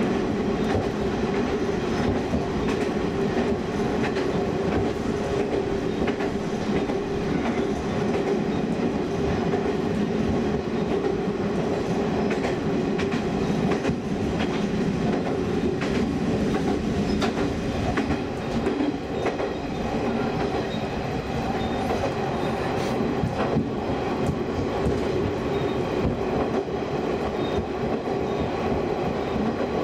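Diesel railcar running steadily along single track, heard from the driver's cab: a continuous running drone with scattered clicks of the wheels over rail joints.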